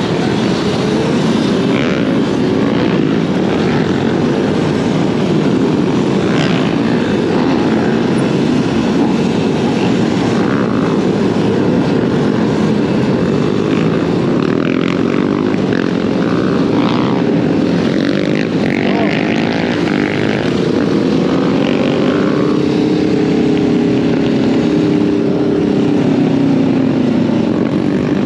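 Steady wind rush on the microphone from riding an off-road motorbike on the trail. Near the end, a motor's pitch rises and falls.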